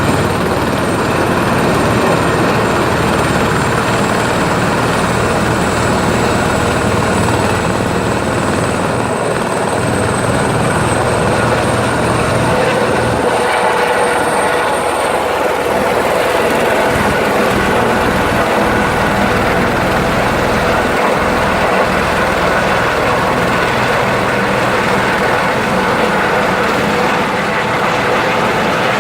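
Helicopter running loud and steady as it takes off: turbine engine and rotor noise, with a thin high whine that fades out about halfway through.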